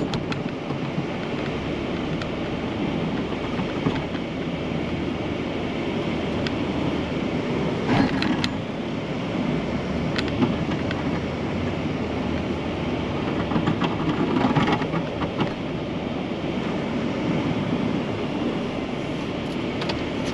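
Truck moving over snow: a steady rumble of engine and tyre noise, broken by a few short knocks and clunks.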